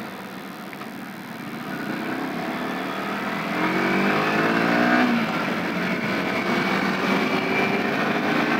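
Yamaha R15 V3's 155 cc single-cylinder engine heard from the rider's seat, with wind noise. It runs quietly at low speed at first, then the engine note rises as the bike accelerates about three to four seconds in, and settles to a steady drone.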